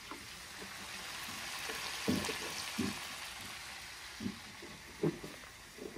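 Chicken sizzling and frying in a large aluminium karahi over a gas flame while it is stirred with a wooden spoon. The sizzle swells to its loudest about two seconds in and then dies down, with a few short knocks and scrapes of the spoon against the pan.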